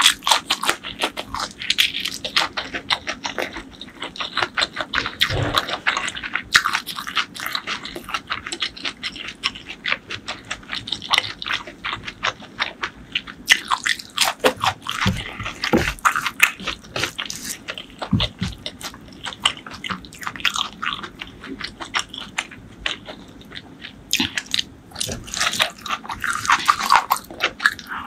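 Close-miked eating sounds: a person chewing mouthfuls of fried green chilli and curry-soaked rice, with quick crunchy, wet smacking clicks throughout and a few dull low thumps near the middle.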